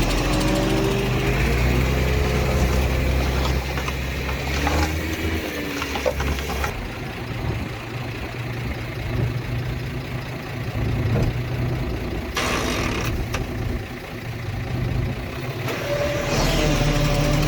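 Diesel engines of heavy earthmoving machinery, a bulldozer and dump trucks, running and revving up and down; louder in the first few seconds and again near the end.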